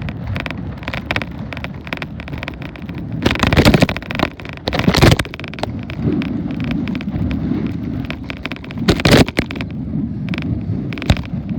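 Wind buffeting the microphone of a tablet taped to bicycle handlebars while riding: a steady low rumble with short rattling clicks and three louder bursts, about three, five and nine seconds in.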